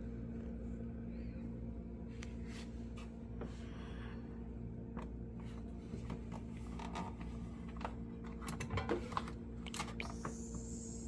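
Light clicks and knocks of plastic containers and items being handled and set down in a refrigerator, over a steady low hum. The knocks come more densely about eight to nine seconds in, and a short hiss follows near the end.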